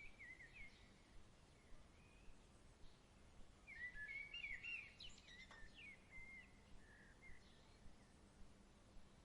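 Faint evening birdsong: scattered chirps, then a livelier run of warbling chirps about four seconds in, over a soft steady hiss.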